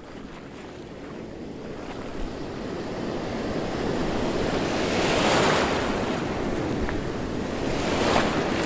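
Sea waves washing, with wind, fading in and growing louder, with swells of surf at about five seconds and again near the end.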